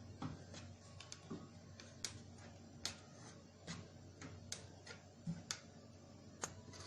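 Faint, irregular small clicks and taps, about one or two a second, from craft materials being handled while decorating a headband.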